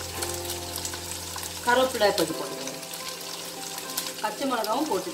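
Ginger-garlic paste and sliced shallots frying in hot oil in a wok, a steady sizzle, with faint background music over it.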